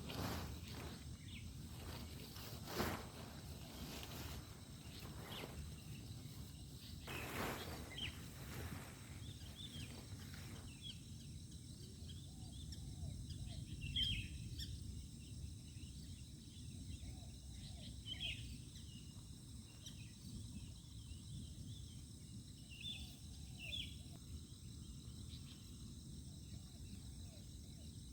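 Night insects keeping up a steady high-pitched drone, with scattered short chirps and a low steady rumble beneath. During the first ten seconds a few soft knocks and rustles come through, then stop.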